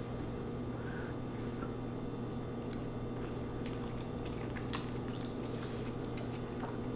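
Close-miked eating of lo mein noodles: soft wet chewing and mouth sounds with a few small clicks, over a steady low hum.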